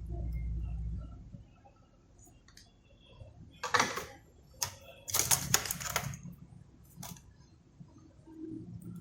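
Clicks and rattles of small tools and parts being handled on a repair bench, in two clusters about four and five seconds in and once more near seven seconds, after a low hum in the first second.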